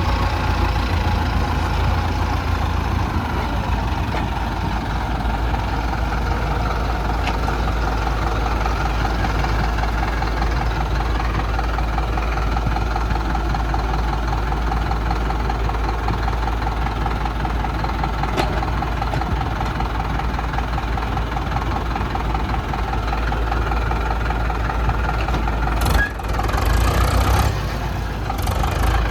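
Heavy diesel engines of an excavator and farm tractors running steadily, with a short louder stretch a few seconds before the end.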